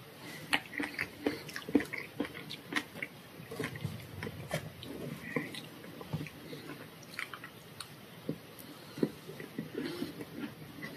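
Close-miked chewing and wet mouth sounds of someone eating a cream-filled pastry tart, with many short sharp clicks; plastic cutlery cuts into the tart about midway.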